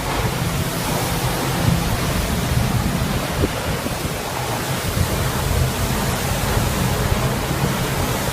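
Typhoon wind and rain making a steady, loud noise with no letup.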